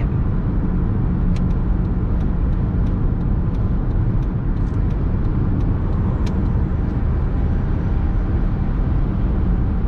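Car driving along at road speed: steady, even rumble of road and engine noise.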